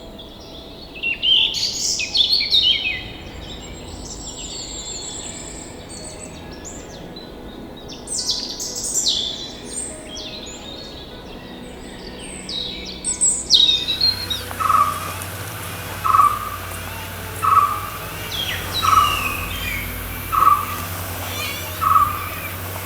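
Wild birds calling: clusters of loud, sweeping, squealing calls. About two-thirds of the way through, the background changes and a short, single-pitched note repeats about every second and a half, around six times.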